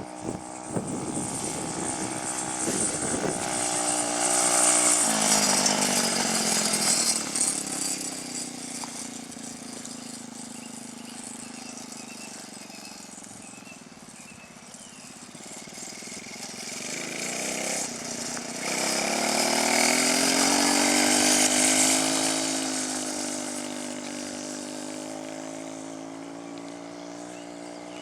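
125 cc dirt bike engine running as the bike rides past twice: the engine note grows louder as it comes near, peaking about five seconds in and again about twenty seconds in, and drops in pitch as it moves away each time.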